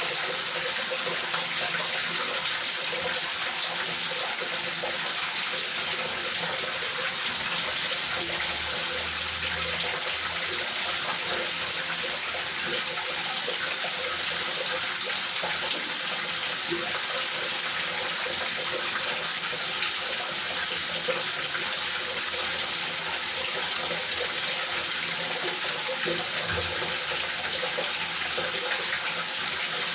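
Steady rainfall: an even, unbroken hiss of rain with no let-up.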